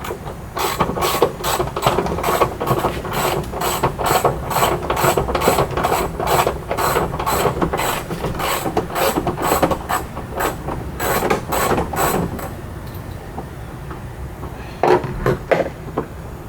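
Hand ratchet wrench clicking in quick, even strokes, about four a second, turning out the door hinge bolts. It stops about twelve seconds in, and a few more clicks come near the end.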